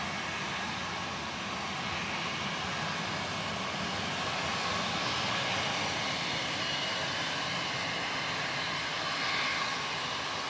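Airliner engine noise, a steady rushing haze that swells slightly, with a faint high whine coming in about halfway through.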